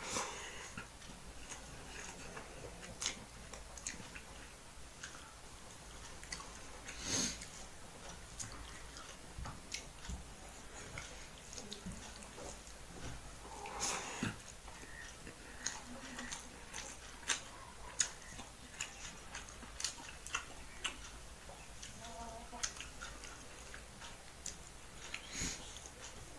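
Close-up chewing and mouth sounds of a man eating rice and fish curry by hand, with many short sharp clicks and smacks scattered irregularly.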